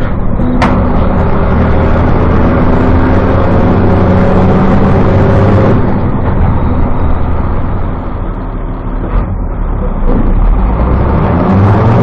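Diesel engine of a short bus revving hard, its pitch climbing for several seconds, falling off about halfway through, then building again near the end.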